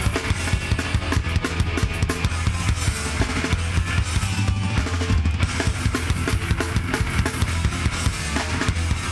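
Live hardcore punk band playing an instrumental passage: fast drum kit beats with bass drum and snare over distorted guitar and bass.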